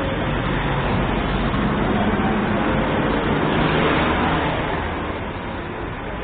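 A motor vehicle passing by: its engine and tyre noise swell to the loudest about four seconds in, then fade away.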